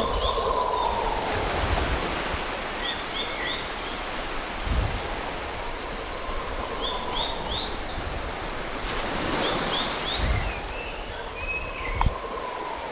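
Steady rush of flowing water, with short runs of three or four quick bird chirps a few times over it.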